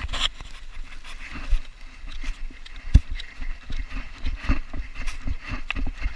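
Irregular knocks, thumps and rattles from a GoPro strapped to a Belgian Malinois as the dog moves, over a low rumble. One sharper knock comes about halfway through, and a cluster of them near the end.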